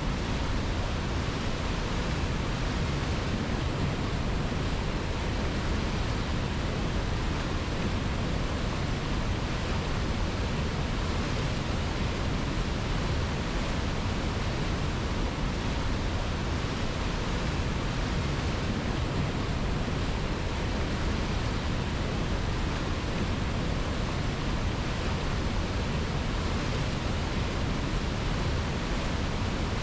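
Steady, unbroken rush of river water, even and unchanging throughout.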